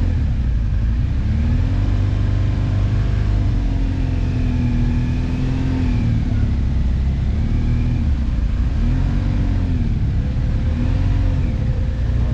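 Motorcycle riding: the engine note rises and falls over and over as the throttle opens and closes, under heavy wind rumble on the microphone.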